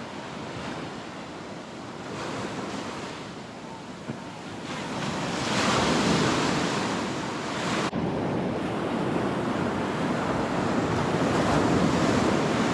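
Ocean surf breaking and washing up the beach, swelling louder about five seconds in.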